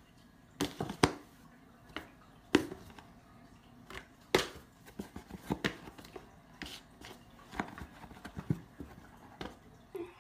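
A cat's paws batting, tapping and scratching at a cardboard shoebox, making irregular sharp taps and knocks, with a few louder knocks in the first half.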